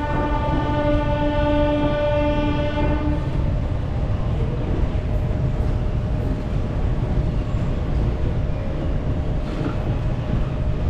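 Locomotive horn sounding a long blast, broken briefly about two seconds in and stopping about three seconds in, over the train's low steady rumble: the departure signal as the train pulls out of the station.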